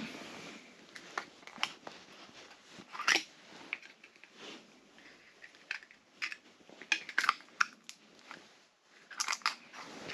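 Fishing gear being handled close to the microphone: irregular sharp clicks, crackles and short crunchy scrapes, with no steady rhythm.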